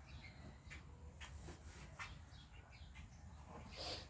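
Quiet outdoor ambience: faint scattered taps and rustles, with faint bird chirps and a brief louder sound just before the end.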